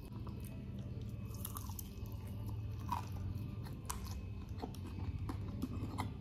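A person chewing food close to the microphone, with scattered crunches and wet mouth clicks over a low steady hum.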